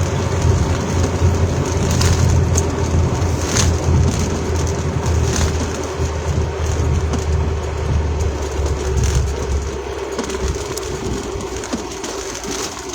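Road and engine noise heard inside a moving car in rain: a steady low rumble with a constant hum and a few light ticks. The rumble eases off near the end.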